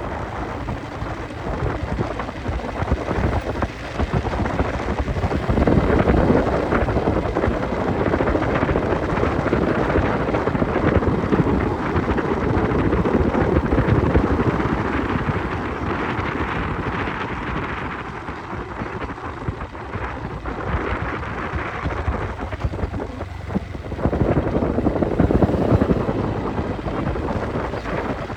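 Wind rumbling on the microphone of a moving motorcycle, mixed with the motorcycle's running and road noise, swelling louder twice.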